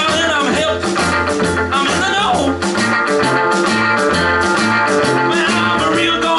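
Live rock and roll band playing: electric guitar over a bass line that steps from note to note, with steady drums.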